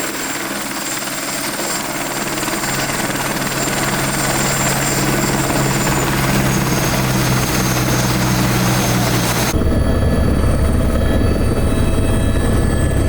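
Helicopter in flight, its rotor and turbine running steadily: a low drone with a high whine above it. About two-thirds of the way through, the sound switches abruptly to a heavier, deeper rumble.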